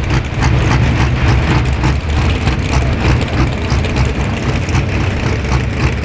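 Pro Stock pulling tractor's diesel engine running loud and steady, with a fast, regular crackle over a deep drone.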